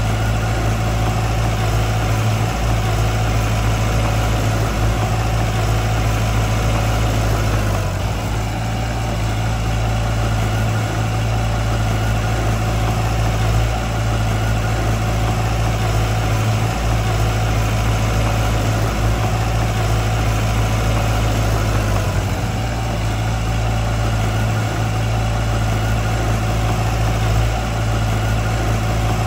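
Diesel engine of a heavy construction machine running steadily with a low, even drone, dipping slightly now and then.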